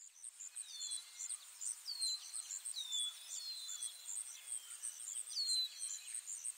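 Woodland birdsong: quick, very high chirps repeating in a steady rhythm, about three or four a second, with a falling whistled note roughly once a second.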